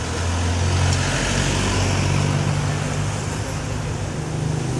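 A motor vehicle's engine running steadily, with a deep hum and road traffic noise around it.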